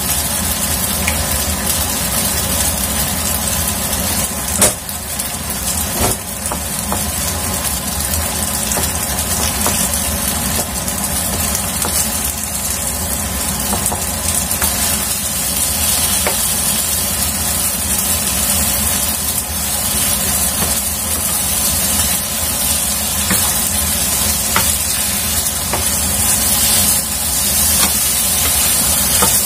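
An egg and flat rice noodles frying and sizzling in a non-stick frying pan, with a wooden spatula scraping and tapping the pan and a couple of sharper knocks about five and six seconds in. Near the end the egg is being broken up and stirred into the noodles.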